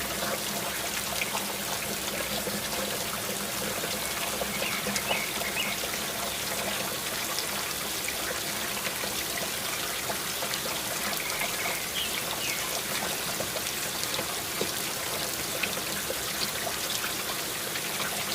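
Steady rain falling, with water trickling and pouring. A few short high chirps come through now and then.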